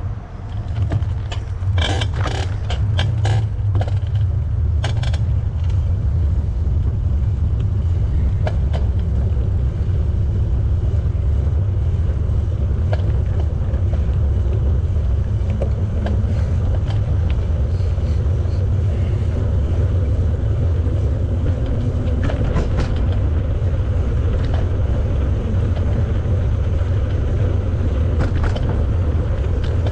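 Steady low rumble of wind on the microphone and bicycle tyres rolling on a paved path while riding, with a cluster of sharp clicks and rattles about two to five seconds in.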